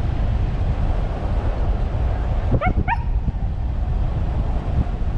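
A dog gives two quick, high yips about two and a half seconds in, over a steady low rumble of wind on the microphone.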